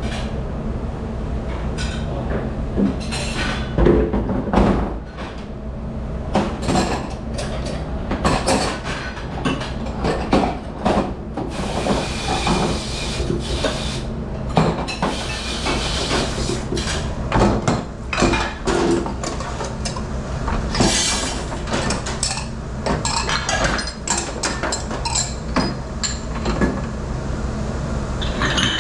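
Dishes, pots and utensils clattering and clinking in a busy commercial dish room, with many irregular knocks over a steady low machine hum.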